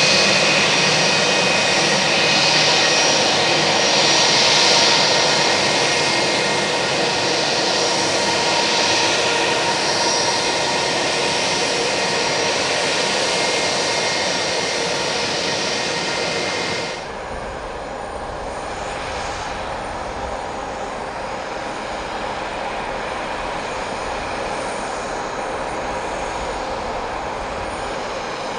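Airbus A320-232's IAE V2500 jet engines running steadily, a broad rush with a high whine on top. About two-thirds of the way through the sound drops abruptly to a quieter, duller hum with low wind rumble.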